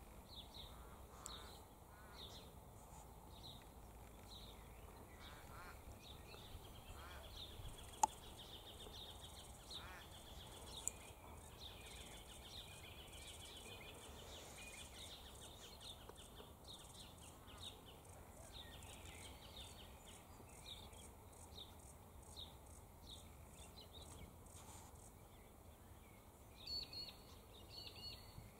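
Faint outdoor birdsong: many small birds chirping and twittering in short, repeated high calls over a quiet background, with two sharp clicks about eight and eleven seconds in.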